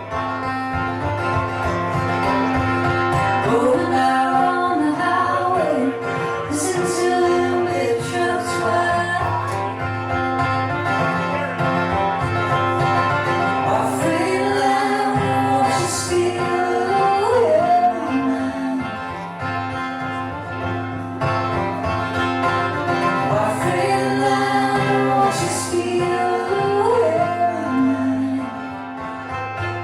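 Live band music with a guitar-led melody over steady bass notes; the lead line bends up and down in phrases.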